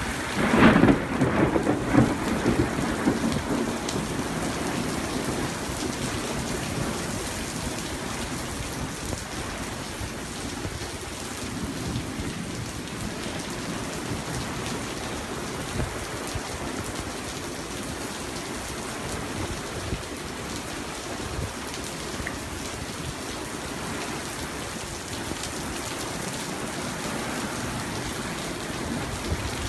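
A loud thunderclap about half a second in, rumbling away over the next few seconds, then steady rain falling for the rest of the time.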